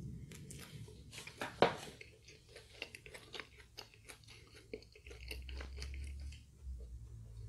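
Close-miked chewing of crispy KFC fried food, with wet mouth sounds, crunches and small clicks. A single sharp smack about one and a half seconds in is the loudest sound.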